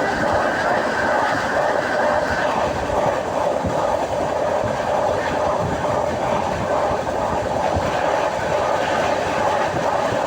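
Steady running noise of a moving passenger train heard from inside the carriage: continuous rumble with irregular clatter of the wheels on the track.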